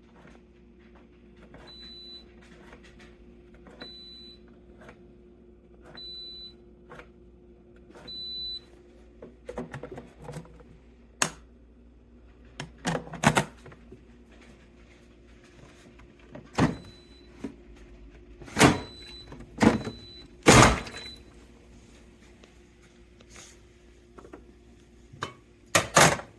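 A steady low hum with four short, high beeps about two seconds apart, then a series of sharp clicks and knocks in the second half, the loudest near the end. Typical of a fully automatic espresso machine warming up and being handled during its start-up.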